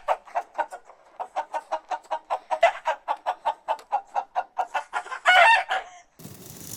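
A chicken clucking in a fast, even run of short calls, about five a second, ending in a loud, longer squawk about five seconds in. The sound then cuts to a steady hiss near the end.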